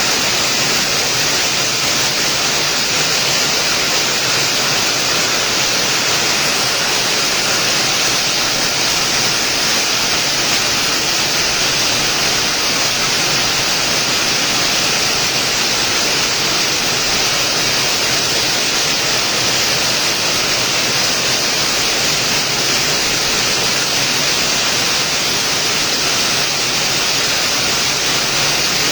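Rain falling steadily: an even, bright hiss that doesn't change in level, with no separate drops or thunder standing out.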